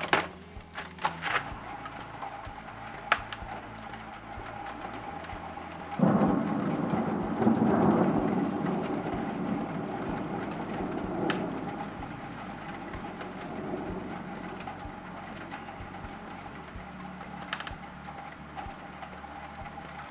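Thunder: a sudden loud crack about six seconds in, rolling into a low rumble that slowly fades over several seconds. A few sharp clicks come before it and now and then after.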